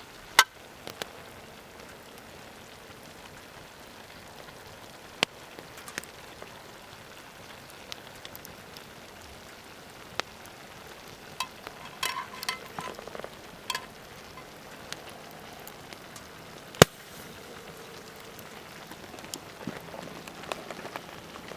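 Paella cooking in a cast-iron pan over an open campfire: a steady sizzling hiss with scattered sharp pops. A brief cluster of clicks and clatter comes about twelve seconds in.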